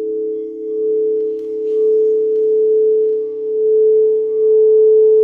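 Singing bowls ringing in a sustained drone: two main pure tones held together, with fainter higher overtones, swelling and fading in slow waves.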